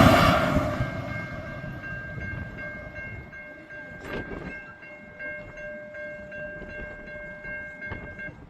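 Two Aurizon diesel locomotives running light, their noise fading fast in the first second as they move away. A steady electronic ringing from the level crossing's warning bells follows and stops abruptly shortly before the end.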